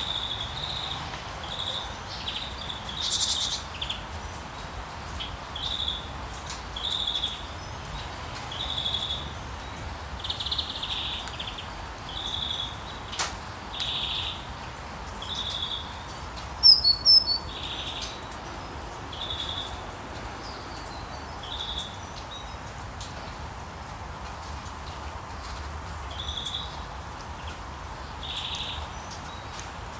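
Rainforest nature-sound ambience: short high chirping calls of wildlife repeating roughly once a second over a steady background hiss. A louder, sharper call stands out about halfway through.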